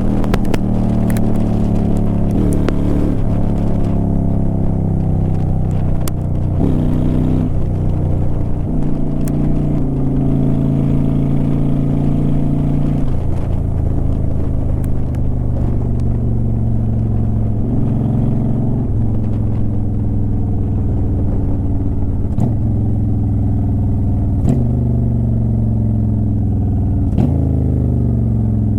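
2009 Honda Shadow Aero 750's V-twin exhaust under way, the engine pitch rising and dropping repeatedly through gear changes and changes in speed, with wind rushing over the microphone.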